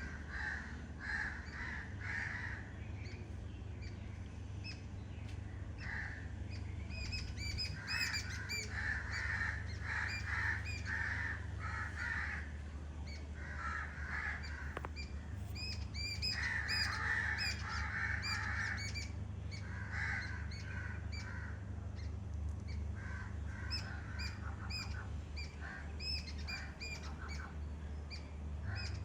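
Birds calling in repeated bouts every few seconds, with many short, high chirps, over a steady low rumble.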